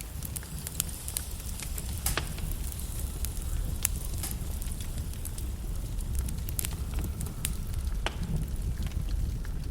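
Wood fire burning in a fireplace: logs crackling, with irregular sharp pops over a steady low rumble of flame.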